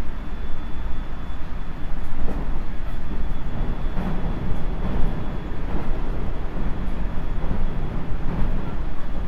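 JR Central 373 series electric train running along the line, heard aboard the KuMoHa 373-8 motor car: a steady rumble of wheels on rail with a few irregular clicks.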